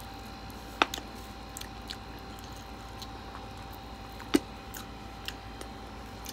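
A person eating chicken wings close to the microphone: quiet chewing and tearing of meat off the bone, with a sharp click or smack about a second in and another a little past four seconds, plus a few softer ones.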